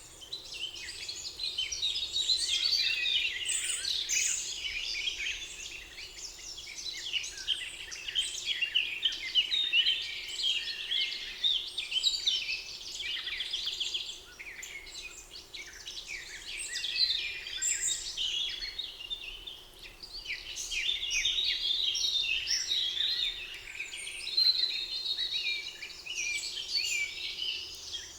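Several songbirds singing at once in a spring forest chorus, a dense mix of chirps and trills that swells and eases, over a faint steady background hum.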